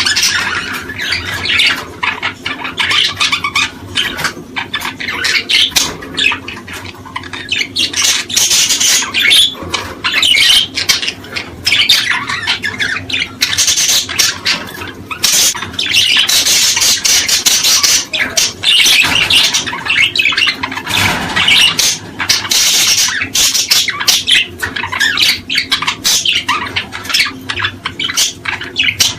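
Small cage birds chirping and chattering continuously, many quick overlapping calls and trills with no break.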